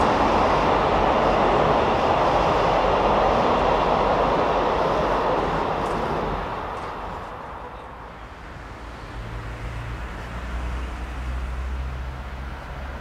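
A double-deck commuter train rolling across a bridge: a steady rumble of wheels on rails that fades away over the first half. Then a locomotive approaches slowly with a low, steady hum.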